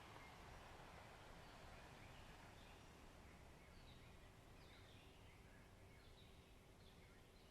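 Faint forest ambience: small birds calling with short, falling chirps from about three seconds in, over a soft, steady background wash.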